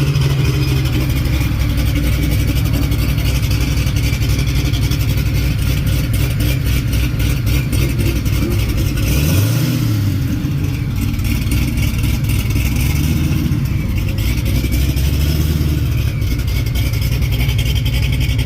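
Drag racing car engines running loud and rough, with a rev that rises and falls in pitch about halfway through.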